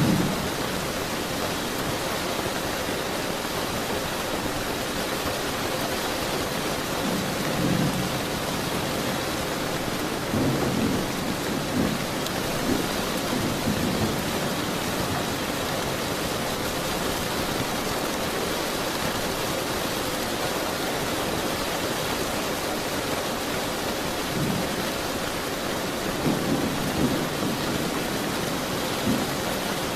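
Steady rain falling, with low rolls of thunder rumbling through it several times: once at the start, a longer roll about a third of the way in, and more near the end.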